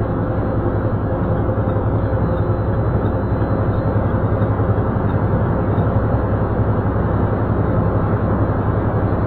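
Heavy truck running steadily on the road, a constant low engine hum under even road noise.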